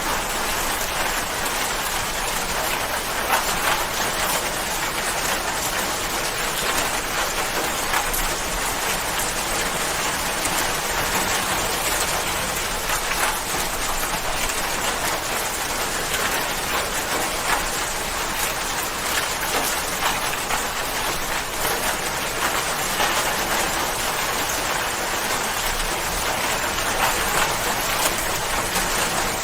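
Steady rain falling and pattering on a surface, an even hiss thick with fine drop ticks.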